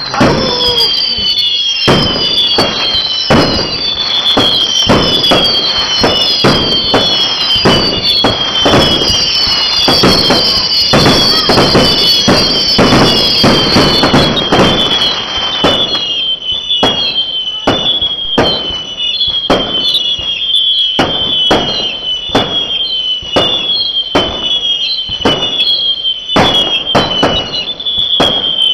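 Fireworks going off in rapid succession: a dense, continuous run of bangs and crackles, threaded with a repeated whistle that falls in pitch over and over.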